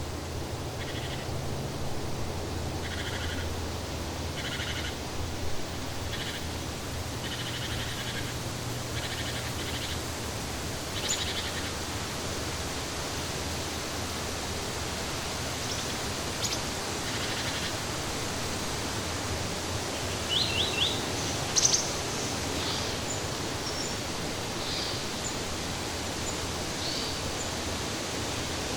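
Steady natural outdoor ambience of even rushing noise, with birds calling over it. A short call repeats about once a second for the first ten seconds, then scattered high chirps follow, with a quick cluster a little past two-thirds of the way through.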